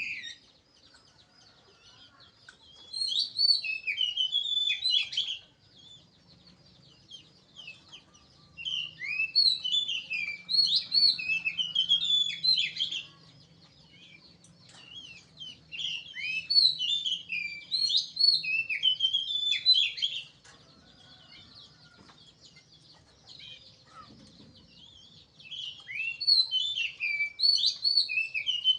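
Caged songbird singing in four bursts of varied, quickly changing whistled and chirped phrases, each lasting several seconds, with pauses between them.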